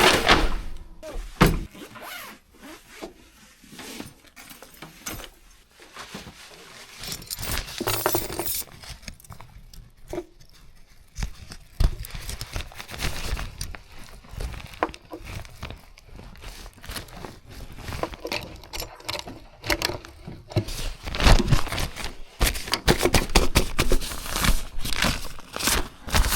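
Camping gear being handled and set up: irregular knocks, clatter and scrapes, with a denser, louder run of clattering about 21 to 25 seconds in.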